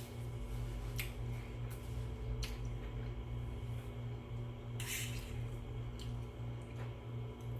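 A person eating: chewing, with a few sharp clicks of a utensil against a plate or bowl, over a steady low hum.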